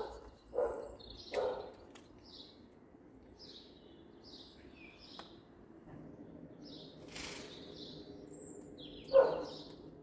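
Birds chirping: many short, high chirps scattered throughout, with a few louder bursts in the first second and a half and the loudest one about nine seconds in.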